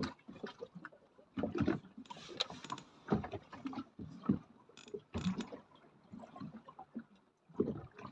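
Choppy water slapping against the hull of a small drifting boat, with irregular knocks and clatter, the loudest about a second and a half, three, five and seven and a half seconds in.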